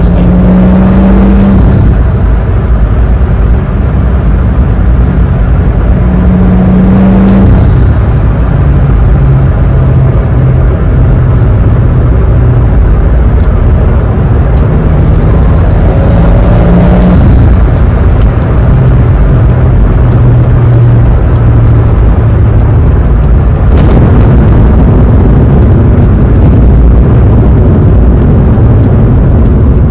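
Loud in-cabin sound of an E46 BMW cruising with a swapped N55 turbocharged inline-six: a steady engine drone over road rumble, stepping a little up and down in pitch.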